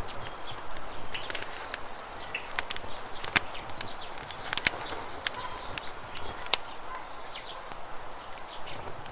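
Campfire crackling with scattered sharp pops, over the steady rush of flowing river water, with birds chirping now and then.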